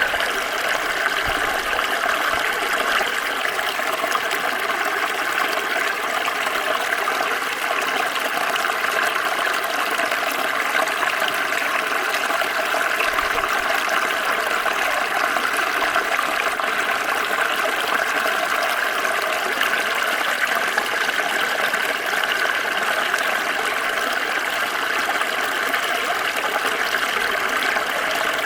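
Small stream flowing steadily over stones, a continuous splashing and trickling rush of water.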